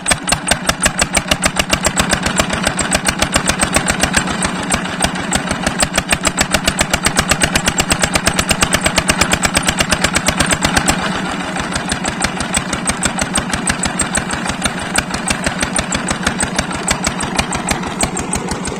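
Old Petter diesel engine running steadily and driving a tubewell water pump, with a rapid, even beat. It drops slightly in level about eleven seconds in.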